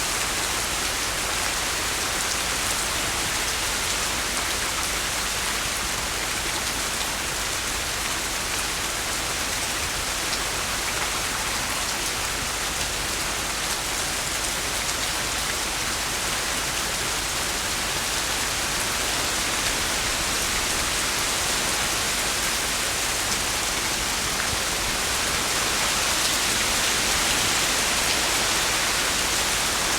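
Heavy rain pouring down in a storm of strong straight-line winds, a steady dense hiss that swells slightly near the end.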